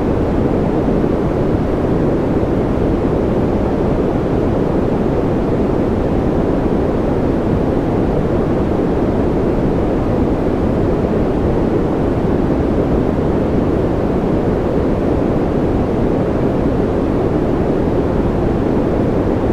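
Continuous white-noise ambience: an even, steady rush with no drops, clicks or changes, weighted toward the low end so that it sounds deep rather than hissy.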